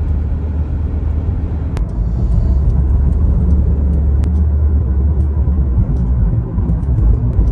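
Road noise inside a moving car: a steady low rumble from the tyres and engine, with a couple of faint ticks.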